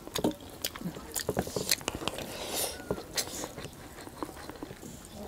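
Close-miked chewing of rice and pork, with many short, sharp, wet mouth clicks scattered throughout.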